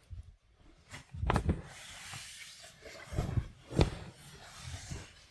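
Rustling of a sleeping bag and clothing, with a few short knocks and bumps, as someone climbs out of a sleeping bag in a cramped space.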